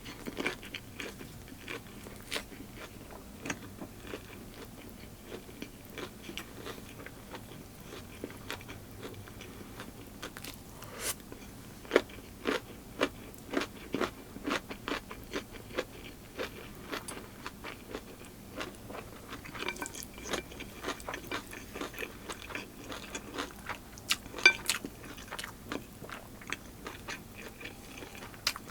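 A person chewing and biting crunchy food close to the microphone, with a steady run of sharp crunches that come thickest and loudest about halfway through and again near the end.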